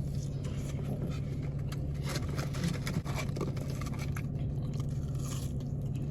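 A person biting into and chewing fried chicken with toast, crunching and crackling close to the microphone, loudest from about two to three and a half seconds in, over a steady low hum.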